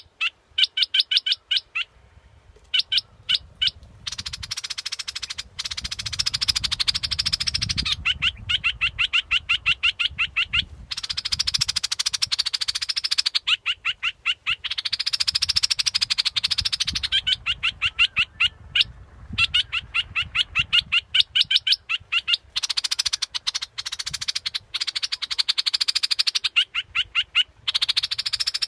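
Bulbul song: phrase after phrase of rapid, chattering repeated notes, each run a few seconds long with short gaps between, as used for decoy-calling the bird.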